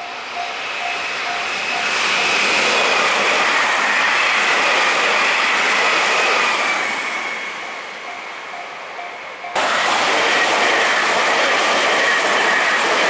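Meitetsu electric train passing a level crossing at speed: a loud rush of wheels on rail with a high whine that slowly falls in pitch. It cuts off abruptly about two thirds of the way through and another loud pass follows. The level crossing's warning bell rings at the start and again near the end.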